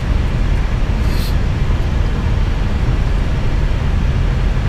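Airbus A320 cockpit noise on short final approach: a steady, loud mix of engine rumble and airflow, heaviest in the low end. A short hiss about a second in.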